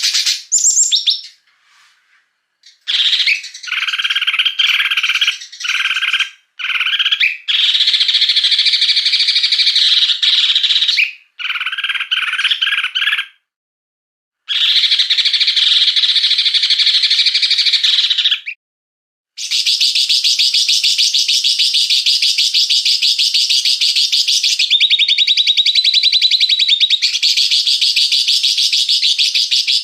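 Small songbirds giving harsh, very rapid chattering and rattling calls in edited segments that start and stop abruptly with short silent gaps between them, then run on unbroken through the second half.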